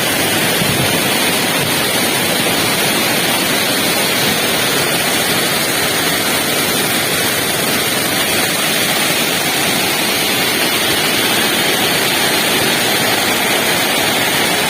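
Waterfall crashing steadily, an even, unbroken rush of water close to the microphone.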